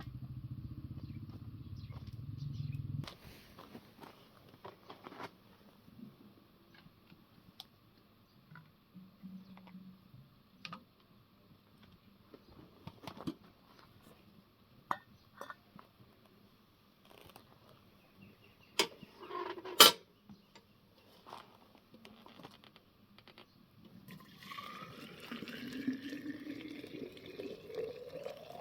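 Scattered clinks and knocks of pots and utensils, with two sharp clanks a little past the middle. A low rumble cuts off about three seconds in, and a sound rising in pitch comes in near the end.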